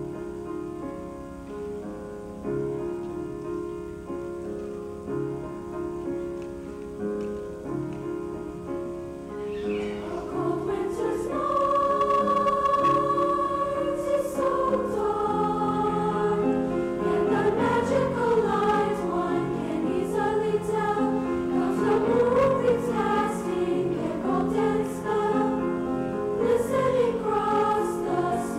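Junior high school choir singing with accompaniment: an instrumental introduction, likely piano, plays alone at first, then the choir's voices come in about ten seconds in and the song builds.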